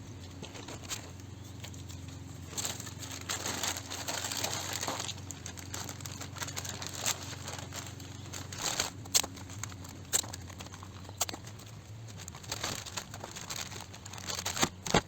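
Masking paper and tape being handled while a car is masked for painting: irregular crinkling and rustling with scattered sharp snaps, over a faint steady low hum.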